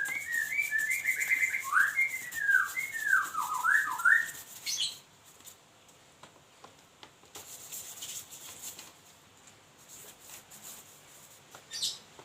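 White-rumped shama (murai batu) singing a quick run of clear whistled notes that arch up and down for about four seconds. It then gives a short high sweeping note about a second later and another near the end, with faint scattered clicks between.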